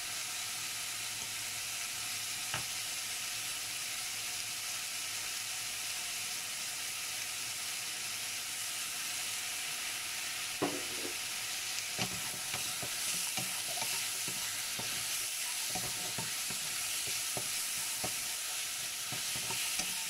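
Chicken pieces sizzling as they fry in a nonstick wok, a steady hiss. From about twelve seconds in, a wooden spatula stirs and scrapes through them, with short knocks against the pan.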